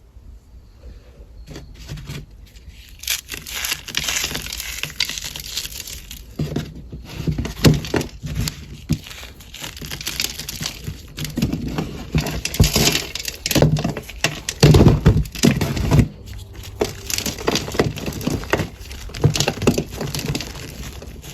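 Cornstarch being crushed, a long run of dense, irregular crunches and crumbling crackles with a short pause about three-quarters of the way through.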